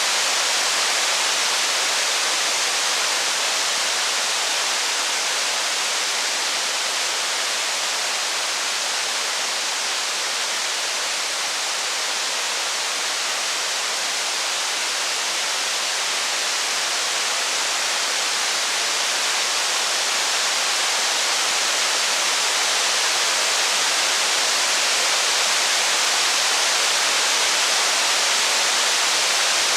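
Heavy rain falling steadily, a dense, even hiss with no distinct drops, crackles or thunder.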